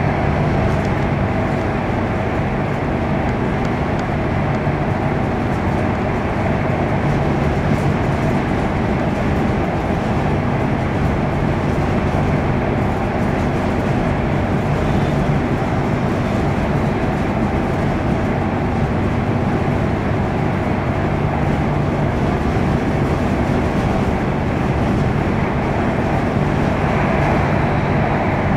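Airport Rail Link express electric train heard from inside the passenger car while running at speed on the elevated track: a steady rumble of wheels on rail with a constant low hum.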